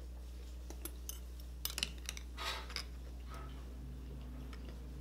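Close-miked eating sounds: a mouthful of vinegar-dipped cucumber and onion being chewed, with scattered sharp clicks and a short crunchy burst about two and a half seconds in. A steady low electrical hum sits underneath.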